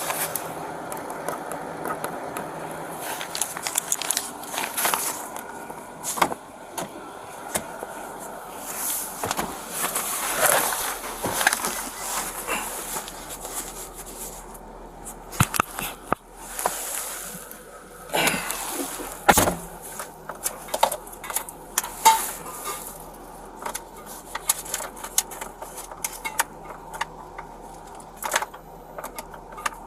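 Irregular clicks, knocks and rustling handling noise, with a louder run of knocks about two-thirds of the way through.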